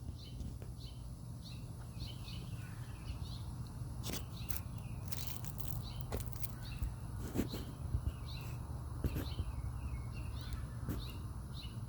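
Small birds chirping, short high chirps repeating throughout, over a steady low rumble, with a few sharp clicks.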